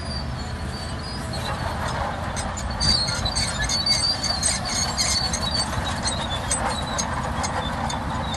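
Crawler bulldozer working, its steel tracks squealing and clicking in quick, repeated high squeaks over a steady low engine rumble; the squeals grow thick about three seconds in.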